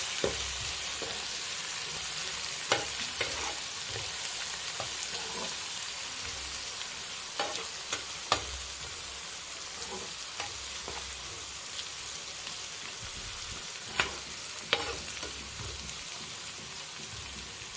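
Chopped onions and ginger-garlic paste sizzling in oil in a non-stick frying pan, stirred with a spatula that knocks sharply against the pan a few times.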